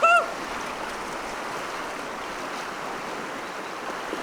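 Steady rush of river current, an even watery hiss. Right at the start, the tail end of an excited, repeated voiced shout cuts off.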